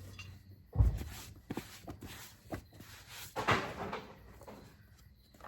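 Car seat parts being handled: a heavy thump about a second in, a few sharp plastic clicks, then a louder rustling scrape about halfway through.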